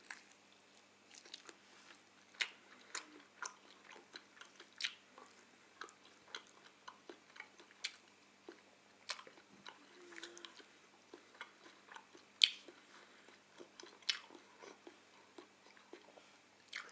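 A person biting into and chewing a stewed chicken drumstick: soft, irregular mouth clicks and smacks, the sharpest one about twelve seconds in.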